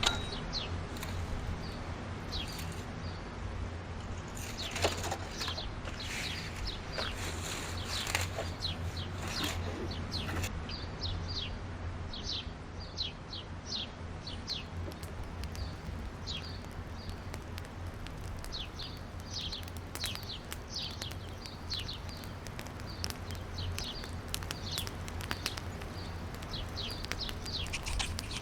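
Small birds chirping in many short, quick calls, over a steady low hum. A few brief rustling or knocking noises come about five to ten seconds in.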